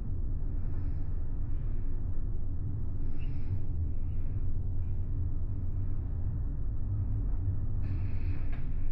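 Steady low rumble and hum of a large car ferry's engines and hull vibration under way, heard inside a cabin. A brief soft hiss rises twice, about three and eight seconds in.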